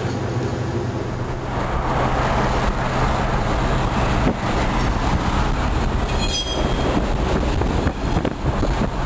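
Diesel freight train passing: a steady low locomotive engine rumble with the rushing, rolling noise of the train, which swells about a second and a half in and stays loud.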